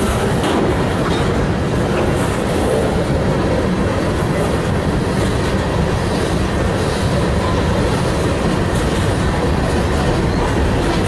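Norfolk Southern freight train's tank cars and covered hoppers rolling past close by: a steady rumble of steel wheels on the rails with scattered clicks.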